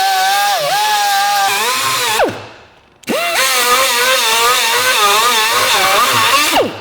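Small electric power tool run twice: it winds down about two seconds in, then spins up again a second later and winds down near the end. Its motor whine wavers in pitch as it works under load.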